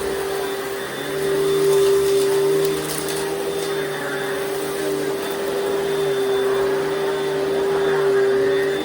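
1988 Panasonic Jet-Flo MC-6215 upright vacuum cleaner running, a steady motor whine over the rush of air, its loudness swelling and dipping a little.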